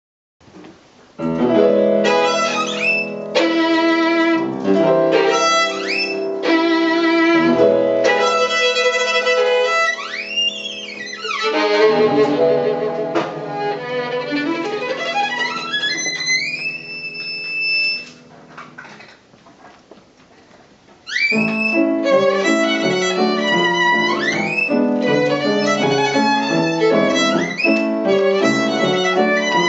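Violin playing a lively novelty tune full of quick upward slides that imitate a canary's calls, over a chordal accompaniment. It drops almost to nothing for about three seconds after the middle, then comes back in.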